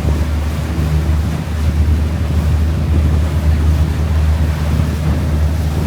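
Wind buffeting the microphone over the steady low rumble of a river cruise boat under way, with water noise from the hull.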